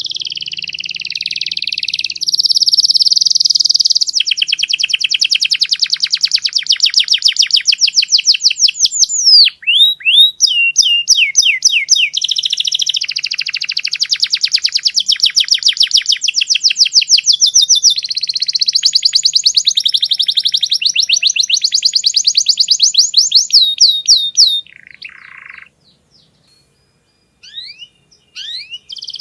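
Domestic canary singing a long, loud, high-pitched song of rapid trills and rolls, each phrase a fast run of repeated notes. The song breaks off about 25 seconds in and resumes at the very end.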